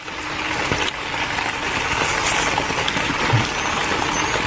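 Heavy rain falling steadily on a tent, an even hiss with a few faint taps.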